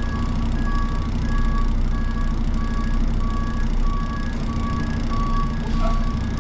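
Truck backup alarm beeping at an even pace over the hook-lift truck's running engine.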